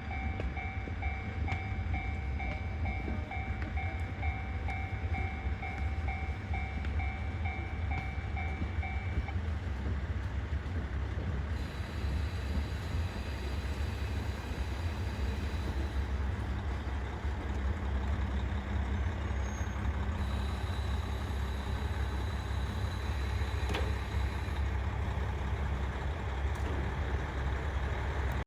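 KiHa 40 diesel railcar idling with a steady low rumble. A pulsing electronic warning tone sounds over it for the first third, then stops.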